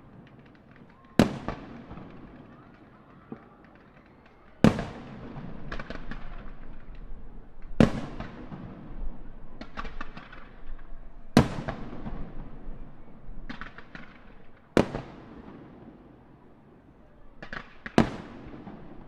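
Aerial firework shells bursting: six loud bangs about every three seconds, each trailing off in echo, with bursts of crackling between them.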